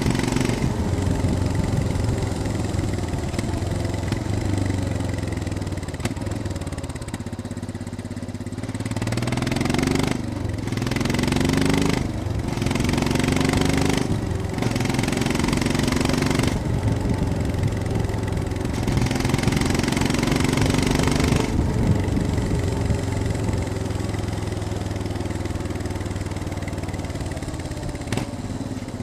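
Royal Enfield Scram 411's single-cylinder engine running on the move, its pitch rising and falling with the throttle, with several short breaks in the sound around gear changes near the middle.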